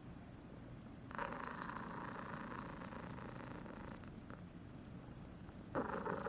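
Cat purring steadily, with a rushing noise that sets in about a second in, eases off after a few seconds and comes back louder near the end.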